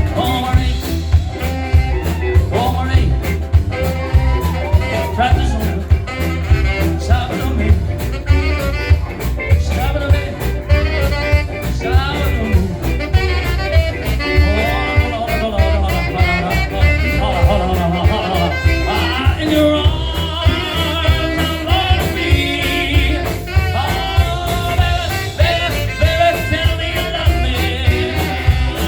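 A band playing upbeat swing music with a steady beat and a strong bass line.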